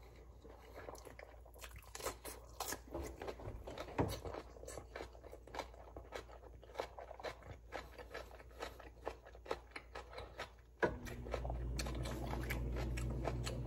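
A person chewing and crunching a mouthful of fried rice and fried fish, with many small wet mouth clicks close to the microphone. About eleven seconds in, a steady low hum starts suddenly and carries on under the chewing.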